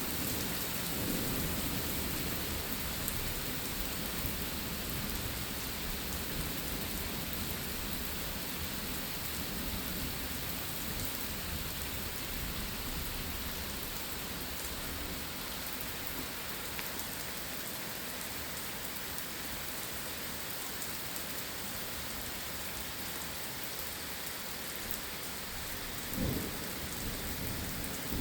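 Steady rain falling during a thunderstorm, with low rolling thunder over the first several seconds and a short rumble of thunder near the end.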